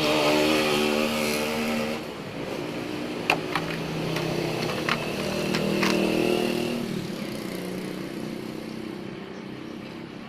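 Kemei electric clipper running with a steady buzz that dips about two seconds in, swells again and fades near the end, with a few sharp clicks in the middle.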